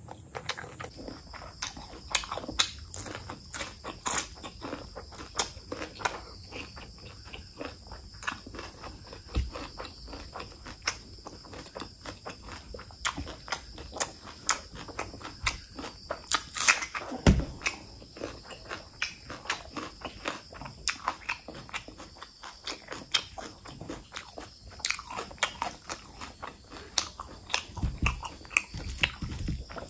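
Close-miked chewing and biting, with irregular crunches and wet mouth clicks as curry-soaked rice and raw red onion are eaten.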